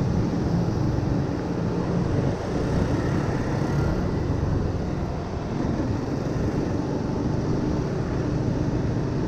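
Honda Winner 150 motorbike running steadily under way, its single-cylinder engine mixed with a dense, buffeting rush of wind and road noise.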